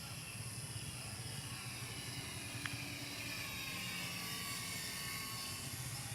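Remote-control model airplane's motor and propeller whining in flight, the pitch sliding slowly down as it passes.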